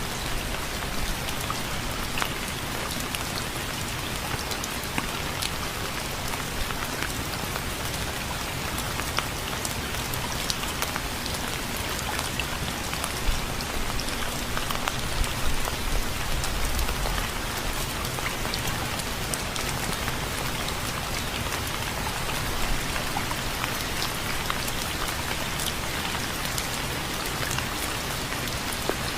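Steady rain falling on a surface, an even hiss full of small sharp drop ticks, with a brief low rumble about halfway through.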